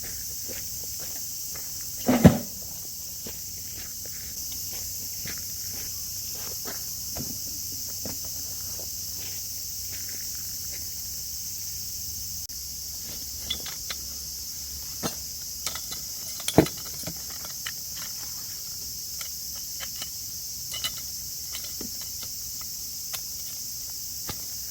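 Steady high-pitched insect chorus of late-summer crickets and cicadas, with scattered clicks and knocks of handling and footsteps; two louder thumps stand out, about two seconds in and again about sixteen seconds in.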